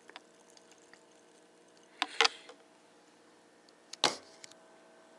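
Two short drinking sounds, about two and four seconds in: cola sipped through a straw.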